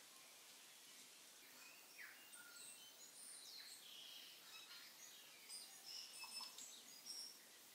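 Faint bird chirps: many short, high calls and quick whistled sweeps over a quiet hiss, thickest from about two seconds in until shortly before the end.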